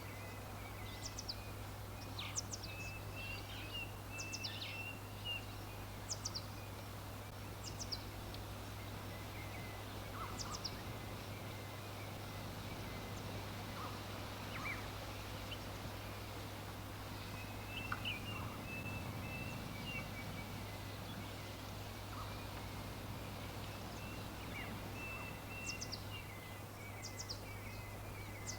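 Wild birds chirping, with short high calls every second or so and a few brief warbling phrases, over a steady background hiss and a constant low hum.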